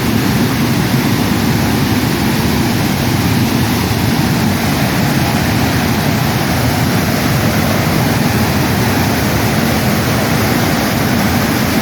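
Floodwater pouring through a dam: a steady, loud rush of water with no letup.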